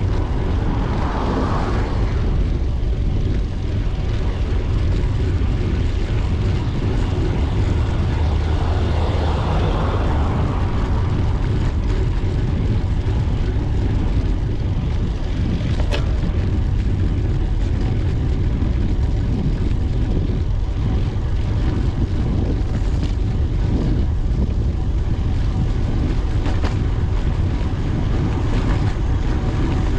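Wind buffeting the microphone of a camera on a moving bicycle: a steady low rumble, with a brief swell about a second in and again near ten seconds, and a single click midway.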